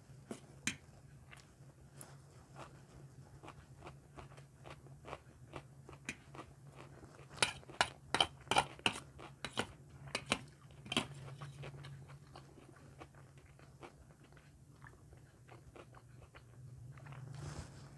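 Close-miked chewing of fried rice with small wet mouth clicks, over a low steady hum. About halfway through comes a run of sharper, louder clicks as a metal spoon scoops rice from a steel plate.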